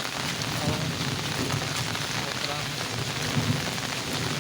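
Steady rain falling, a constant hiss dotted with fine raindrop ticks, with an uneven low rumble underneath.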